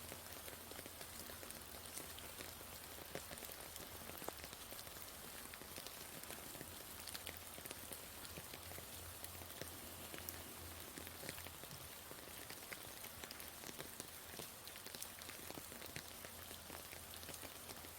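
Steady rain falling, an even hiss with many individual drops ticking as they land.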